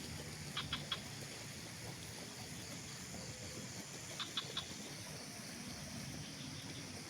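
A small bird calling in two quick bursts of three short chirps, about three and a half seconds apart, over a steady outdoor background hiss. A faint high, even hiss stops a little past the middle.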